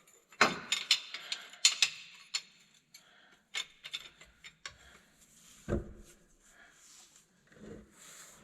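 Tools and metal parts being handled: a quick run of sharp clicks and light metallic clatter in the first couple of seconds, then scattered clicks. Two dull thumps come a little past halfway and near the end.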